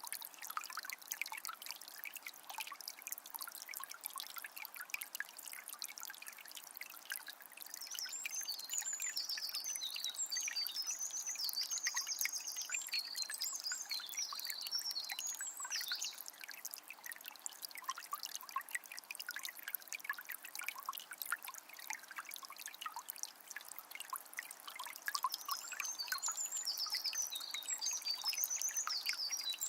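Small spring trickling and splashing steadily. A songbird sings quick, high phrases in two spells, from about eight seconds in and again near the end.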